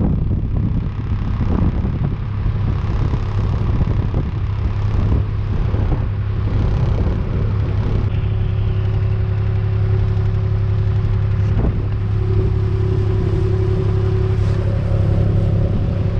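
Farm vehicle engine running steadily with a deep, even hum, with scattered knocks and rattles. A higher steady tone joins in about three-quarters of the way through.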